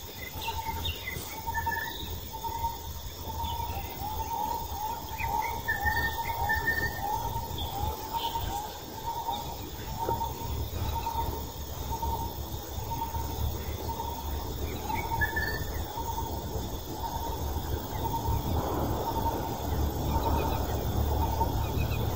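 Birds calling: one repeats a short note about once a second, while others chirp now and then, over a steady low rumble.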